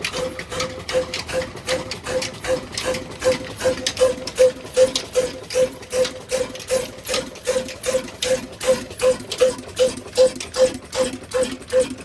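Diesel engine driving a chakki flour mill, running with an even beat of about two and a half strokes a second, each stroke carrying a short ringing knock.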